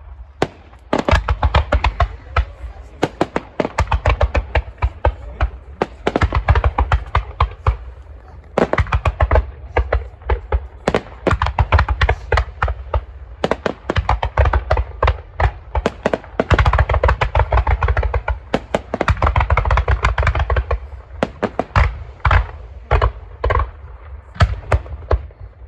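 Aerial fireworks bursting in a rapid barrage of bangs and deep booms, many reports a second, with a few short lulls.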